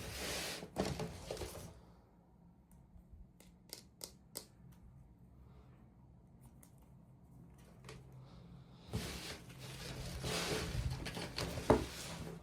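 Plastic toy packaging rustling and crinkling as a miniature is unwrapped, in two spells, at the start and again through the last few seconds, with scattered small clicks and taps in between and a sharp click near the end.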